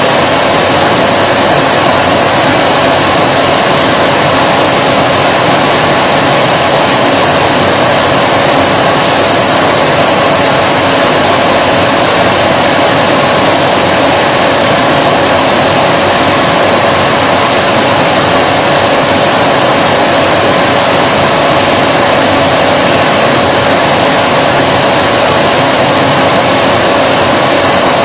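Vacuum cleaner motor running continuously: a loud, even rush of air with a steady mid-pitched whine on top, holding the same pitch and level throughout.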